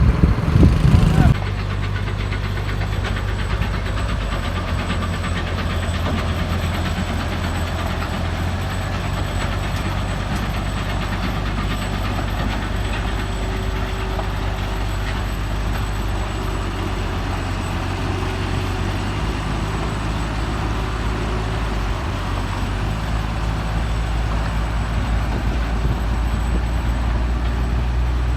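Tractor engine running steadily under load, its note shifting about 23 seconds in. The first second or so is louder.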